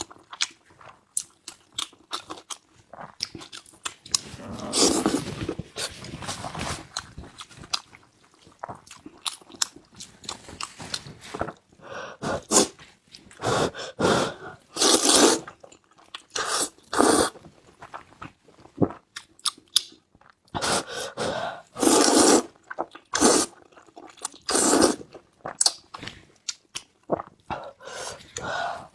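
Close-miked chewing and biting of food, crunchy mouth sounds that come in irregular bursts with short pauses between them.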